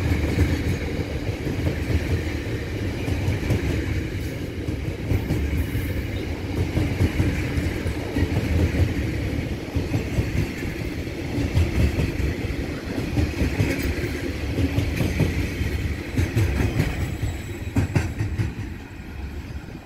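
Freight train of coal hopper wagons rolling past: a steady low rumble of wheels on rail, with clicks of wheels over rail joints and a faint high whine that rises and falls. The rumble drops away near the end.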